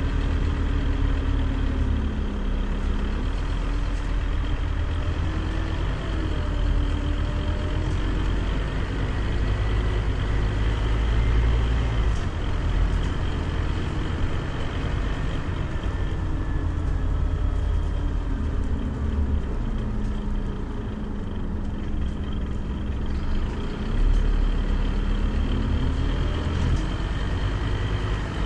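Scania CN270UB city bus's diesel engine running under way over a steady low rumble, its note falling and rising several times as the bus slows and picks up speed.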